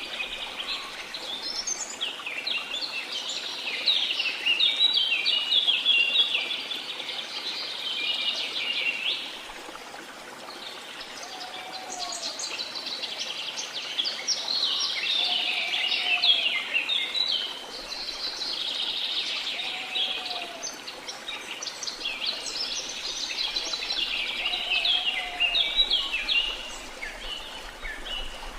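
Rainforest birds chattering and chirping in three long, dense bouts over a steady background hiss. A short, low, arched call repeats four times in the second half.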